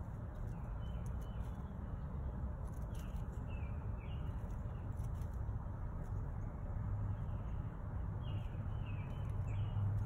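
Small bird chirping in short quick runs of three or four falling notes, about three seconds in and again near the end, over a steady low rumble.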